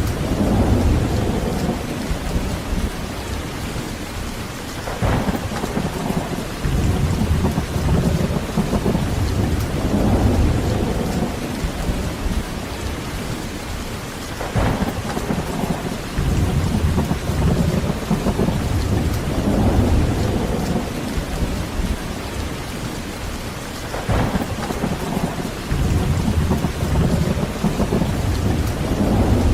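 Heavy rain falling steadily, with low rolling thunder that swells and fades several times and a few brief sharper crackles.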